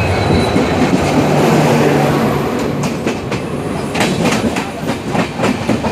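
Passenger train running at speed, with a steady rumble of wheels on the track. From about halfway through, a run of sharp clicks is heard as the wheels cross rail joints.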